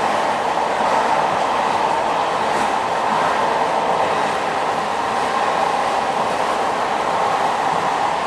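Moroccan passenger train running on the rails, a steady, even rush of wheel and running noise.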